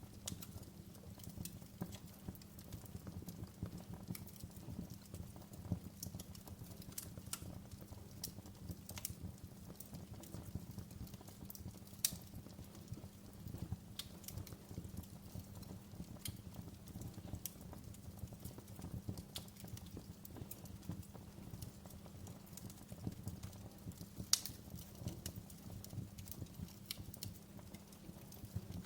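Wood fire crackling in a fireplace: irregular sharp pops and snaps over a steady low rumble of the burning fire, with two louder snaps, one before the middle and one near the end.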